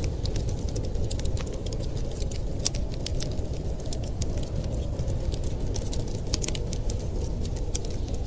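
Wood fire crackling: frequent irregular sharp pops and snaps over a steady low rushing noise.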